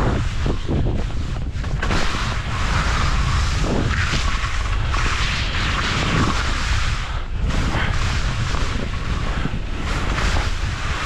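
Wind buffeting the camera's microphone: a steady, loud rumble with a broad hiss.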